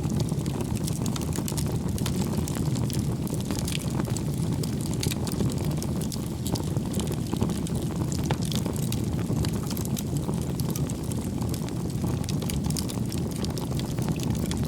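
Wood fire burning: a steady low rumble of flames with frequent small, sharp crackles and pops from the burning logs.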